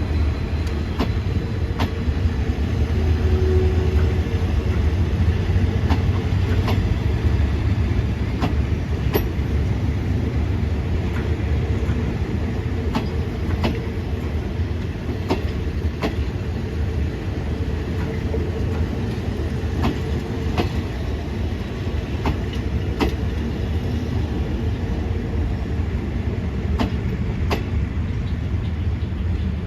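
Train running on the rails, a steady low rumble with the wheels clicking over rail joints about once a second.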